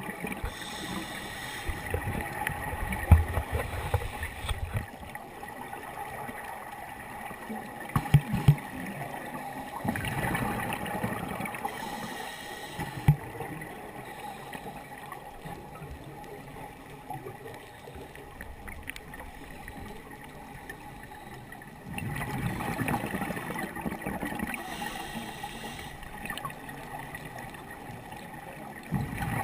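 Scuba diver's exhaled bubbles gurgling from a regulator underwater, in surges roughly every ten seconds, with a few sharp knocks in between.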